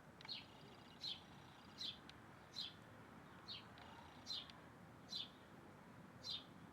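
A bird repeating one short, high, downward-slurred call note about every three-quarters of a second, eight or nine times, with fainter thin notes from another bird behind it.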